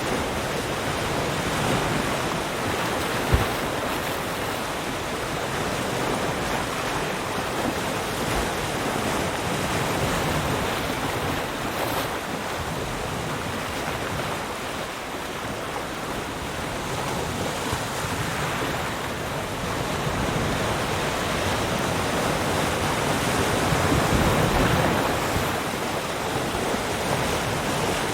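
Ocean surf: waves breaking and washing in as a continuous rush with wind, swelling and easing slowly and loudest a few seconds before the end. A single brief knock about three seconds in.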